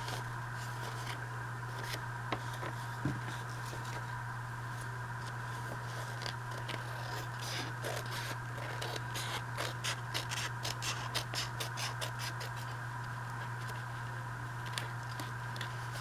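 Scissors cutting through a paper envelope in a run of short snips, busiest in the middle, over a steady low hum.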